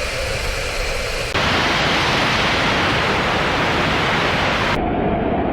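Loud, steady rushing of floodwater, a dense even noise that changes abruptly twice, about a second in and near the end.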